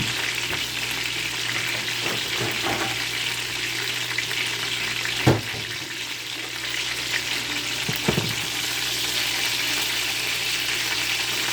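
Hot Cheetos-crusted chicken deep-frying in hot oil, a steady sizzle. A sharp knock about five seconds in and a smaller one near eight seconds.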